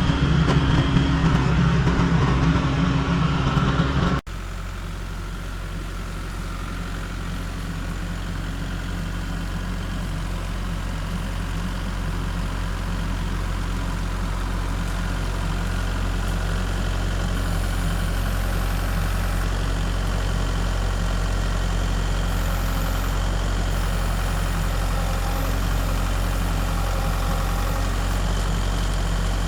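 An engine running steadily. About four seconds in the sound drops sharply to a quieter, even low drone, which slowly grows louder.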